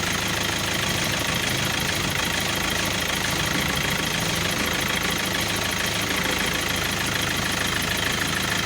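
Toyota Innova engine idling steadily while the steering is turned to full lock, the power steering pump running on freshly changed Dexron ATF. No squeak from the steering: the squeal of the vibrating return line is gone.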